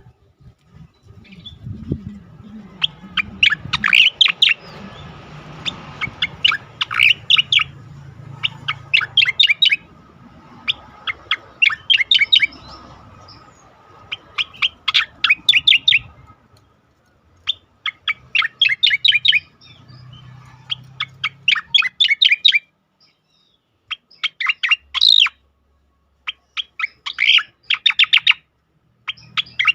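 Cica koreng (striated grassbird) singing its fast, energetic 'ngejoss' song: about a dozen phrases of rapid, sharp chattering notes, each lasting a second or two and separated by short pauses.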